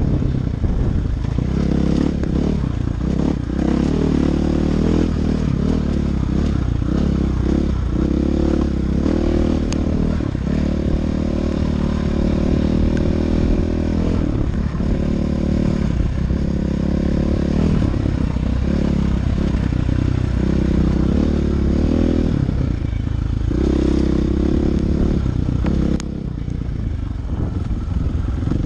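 Dirt bike engine running while riding, its revs repeatedly dropping and picking up again with the throttle. It gets a little quieter a couple of seconds before the end.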